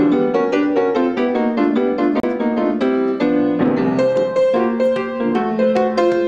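Background piano music, a run of quick, steady notes.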